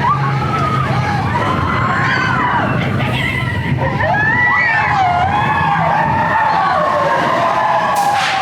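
Big Thunder Mountain Railroad mine-train roller coaster running on its track: a steady rumble under the high, wavering squeal of its wheels through the curves. Near the end the squeal draws out into one long falling tone.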